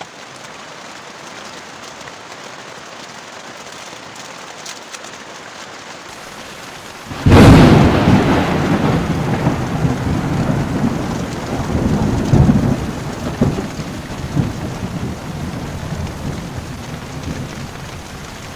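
Heavy rain falling steadily, then about seven seconds in a sudden loud thunderclap that rolls on as rumbling thunder for about ten seconds, slowly fading.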